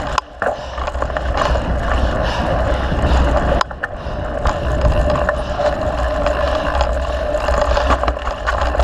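Mountain bike riding a trail, heard from a camera on the ride: wind rushing over the microphone with deep rumble and small rattles from the bike. The noise cuts out briefly twice, just after the start and a little past three and a half seconds in.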